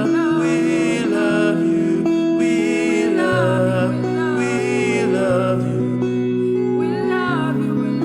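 Slow soaking-worship music: long held chords under a wordless vocal line that wavers in pitch, rising and falling in phrases about a second long.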